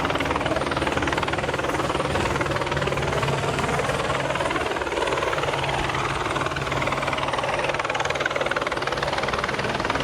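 Police helicopter's rotor and engine running steadily, a fast even chop of the blades, heard from on board.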